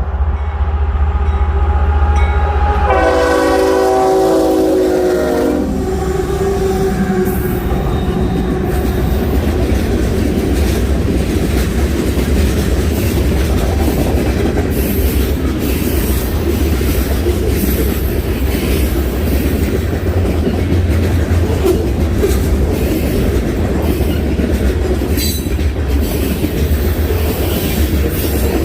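Train sounding its horn in one blast of about three seconds, a few seconds in. After that comes the steady rumble and clatter of the train rolling past.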